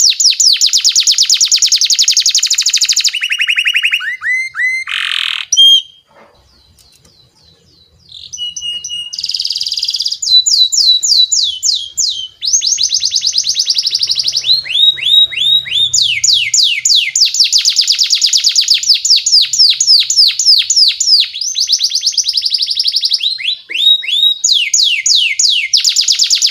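Domestic canary singing a long, fast song: runs of rapidly repeated falling notes, each run changing pace and pitch every few seconds. The song breaks off about six seconds in and resumes about two seconds later.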